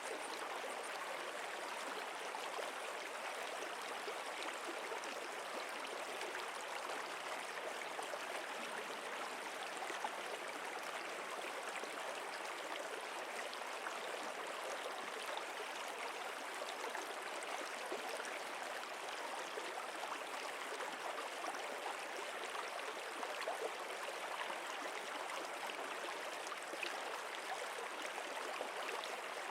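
Running water of a stream, a steady babbling and trickling with small gurgles.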